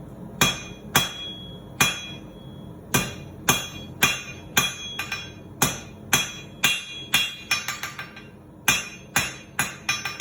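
Blacksmith's hand hammer striking hot steel on an anvil to draw out the bar, about two blows a second, each with a bright anvil ring. A brief pause comes about two seconds in, and a run of quicker, lighter taps comes near the eight-second mark.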